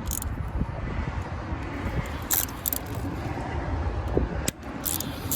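Light metallic clinks and jingles of hand tools and parts during distributor removal on an engine, coming in short clusters, over a steady low rumble.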